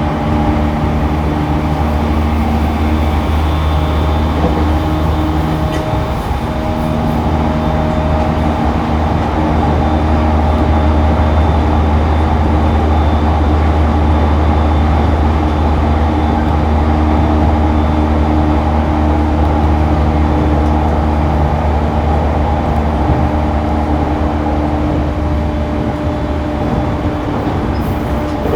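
Cabin running sound of a JR East E231 series 1000 (refurbished) commuter train at speed: a steady low rumble of wheels on rail with a few humming tones that fade out and come back.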